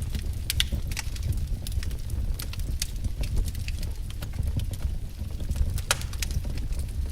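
Wood fire crackling: irregular sharp pops and snaps from burning firewood over a steady low rumble, with one louder pop about six seconds in.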